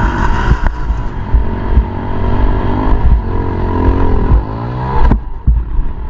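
Pit bike engine revving, its pitch rising and falling several times, with heavy wind rumble on the microphone.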